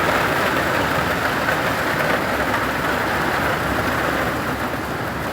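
Heavy downpour of rain and hail pelting down in a steady hiss, easing slightly near the end.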